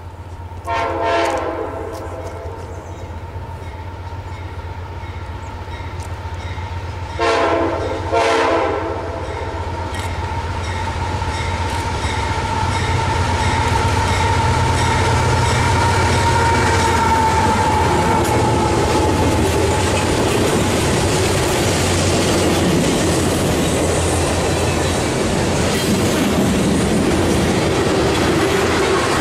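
A CSX diesel freight locomotive sounds its air horn three times, once about a second in and then twice close together around seven to eight seconds in, while its engine grows louder as it approaches and passes. From about twenty seconds in, the freight cars roll by with a steady rumble and the clickety-clack of wheels over the rails.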